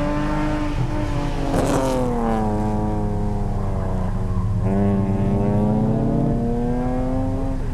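Honda S2000's 2.2-litre inline-four engine heard from inside the open-top cabin under hard autocross driving, its revs falling away, then jumping up suddenly about halfway through as if on a downshift, and climbing again. A brief hiss cuts across it about two seconds in.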